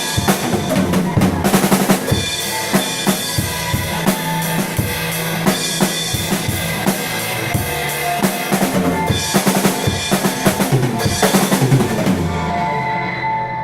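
Drum kit played along to a recorded backing track: steady bass drum and snare strikes with cymbals, over sustained backing music. The drumming stops about a second before the end, leaving only the backing music's held notes.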